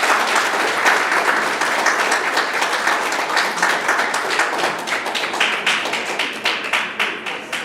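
Audience applauding: dense clapping that thins out into fewer, separate claps toward the end.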